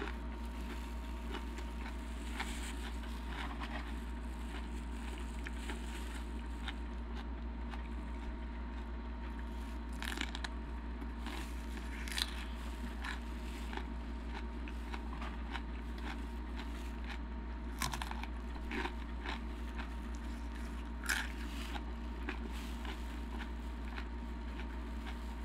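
Close-up chewing and crunching of Takis rolled tortilla chips in cream-cheese-stuffed jalapeño peppers: scattered crisp crunches, a few louder than the rest, over a steady low hum.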